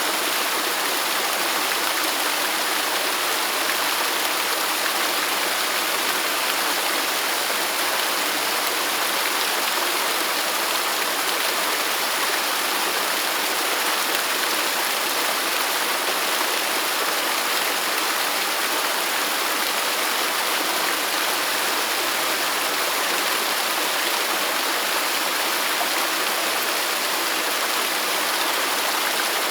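Waterfall: a steady, unbroken rush of falling water, even in level throughout, with its sound mostly in the middle and high range and little low rumble.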